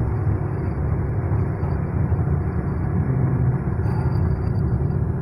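Steady low rumble of a vehicle travelling along a road: engine and road noise, with no sudden changes.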